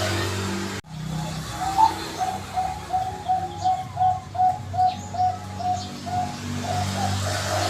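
Zebra dove (perkutut) singing: a run of about a dozen short, evenly spaced coos, two to three a second, starting about two seconds in, over a steady low hum.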